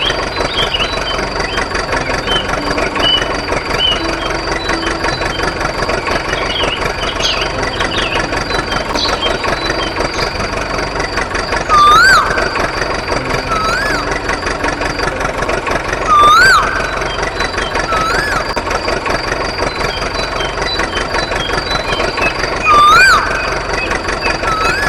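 Engine running steadily with a fast, even knock, broken by short rising-and-falling squeals; three of them, about halfway, two-thirds and near the end, are much louder than the rest.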